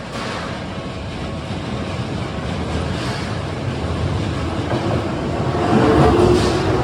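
Electric commuter train on the Keisei Oshiage Line running past the level crossing, with wheels rumbling on the rails. It grows steadily louder, and a steady tone joins in about five seconds in.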